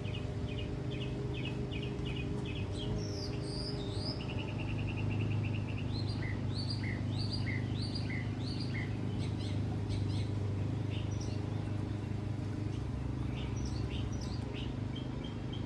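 Songbirds chirping repeatedly, with a quick rapid trill about four seconds in and a run of short down-slurred notes after it, over a steady low hum.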